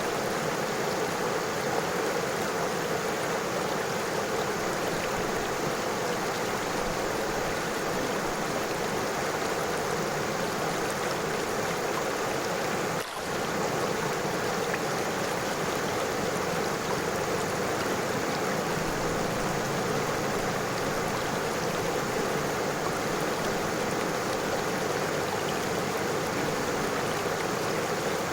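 River water flowing steadily over stones, an even rushing and babbling that dips briefly about halfway through.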